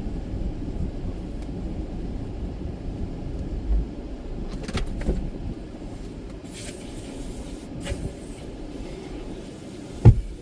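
Steady low rumble of a car, with a few light knocks and one sharp thump near the end.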